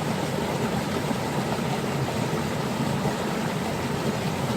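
River water rushing and flowing, swollen after heavy rain: a steady, even rushing noise.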